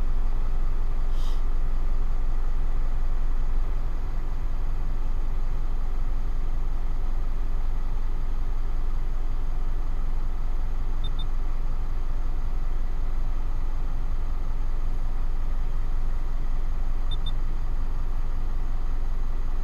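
Mitsubishi Triton ute's engine idling steadily, heard from inside the cab: an even low rumble that dips slightly about four seconds in.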